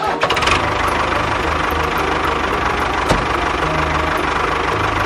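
Tractor engine sound running steadily at a constant pitch, with a single sharp click about three seconds in.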